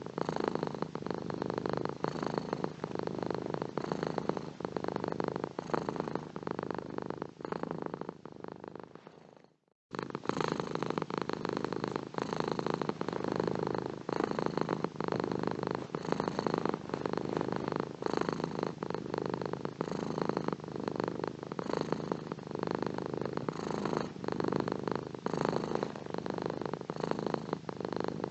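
Domestic cat purring steadily and close up. It fades away about nine seconds in, stops for a brief moment, then starts again at full strength.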